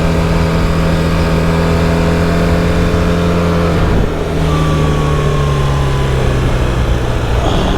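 BMW GS boxer-twin engine running hard at a steady pitch, with wind noise. About halfway through, the engine note briefly breaks and dips, like a gear shift, and the note then sinks slowly.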